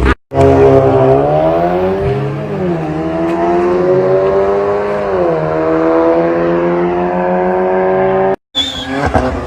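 Car engine accelerating hard, its pitch climbing steadily and dropping back twice at upshifts before climbing again. The sound cuts out abruptly for a moment near the end.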